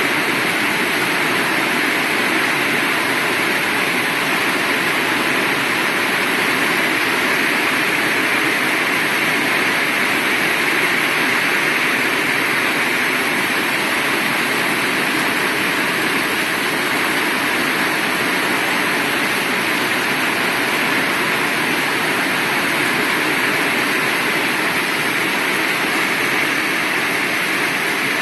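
Heavy rain falling steadily, an even, unbroken hiss with no thunder claps.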